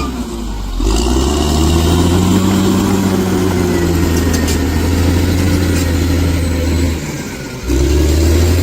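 Bulldozer's diesel engine running under load, its pitch lifting and settling slightly as it works. The sound drops back briefly near the start and again about seven seconds in.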